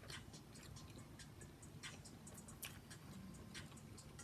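Near silence with faint, irregular soft clicks over a low steady hum.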